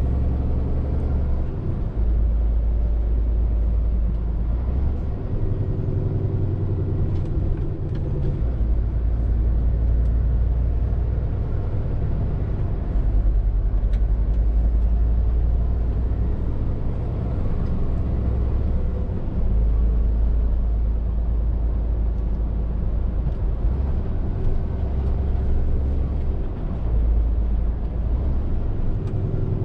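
Scania R450 lorry's 13-litre straight-six diesel running while driving, a low drone whose pitch and strength step up and down several times as the truck changes speed and gear.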